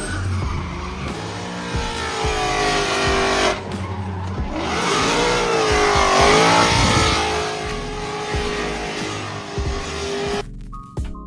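Car doing a burnout: the engine is held at high revs with its pitch wavering up and down, over the hiss and squeal of spinning tyres, loudest a little past the middle. Music takes over near the end.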